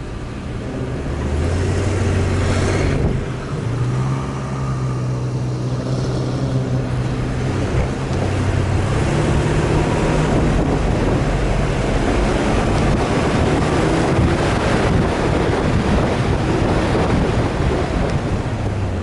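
Off-road vehicle engine running steadily under way, with wind on the microphone; the engine note steps up in pitch about four seconds in.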